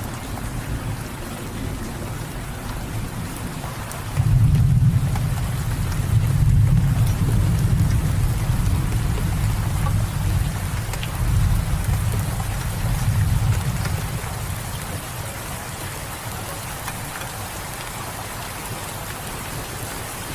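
Steady rain with a long, low rumble of thunder that starts suddenly about four seconds in and fades away over roughly ten seconds.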